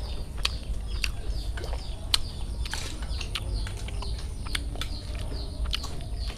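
Small birds chirping over and over in short falling notes, with scattered light clicks and clinks of spoons against bowls during a meal.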